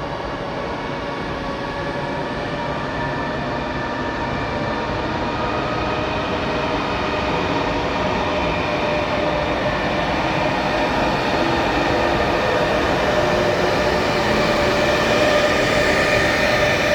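EP2K electric passenger locomotive pulling away with its train: a steady machinery whine holding several tones over a running rail-and-wheel rumble, growing gradually louder.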